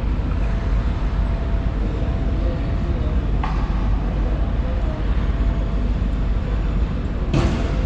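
Airport terminal ambience: a steady low rumble with a faint hum, a brief sharp sound about three and a half seconds in and a short rush of noise near the end.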